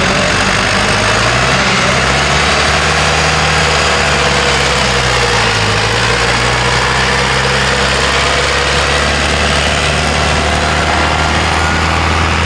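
Heavy tractor engine idling, its pitch stepping up a little about a second in and dipping briefly around six seconds in.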